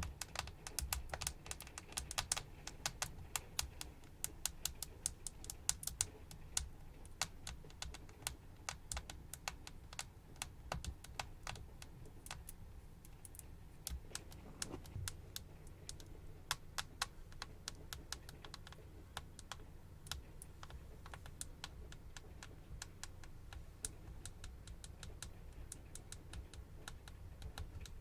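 Close-miked ASMR trigger sounds: a fast, irregular run of sharp clicks and taps, like fingers or nails tapping and typing on a hard surface. The run is busiest in the first few seconds and again near the end.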